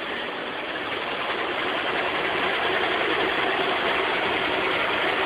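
Automatic car wash machinery running, heard from inside the car's cabin: a steady, dense rushing noise that slowly grows louder.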